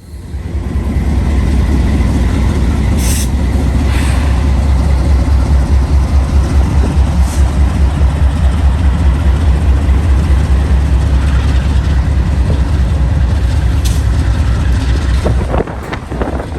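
CSX intermodal freight train rolling slowly past with a steady low rumble that pulses quickly as the cars go by, and a few short clicks. The rumble eases off near the end.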